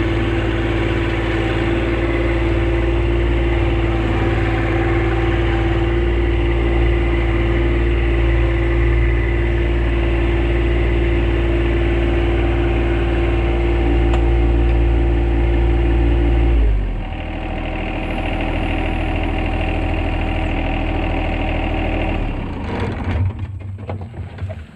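Little John Deere compact tractor's engine running steadily under throttle, then throttled back about two-thirds of the way through and shut off near the end, followed by a few light clicks and knocks.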